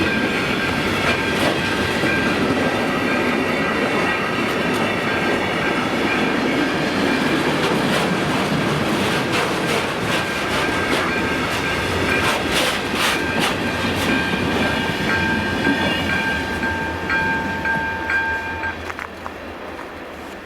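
A train passing over a level crossing, its wheels rumbling and clicking on the rail joints, with a thin steady high tone above. The tone and the rumble fade and stop about two seconds before the end.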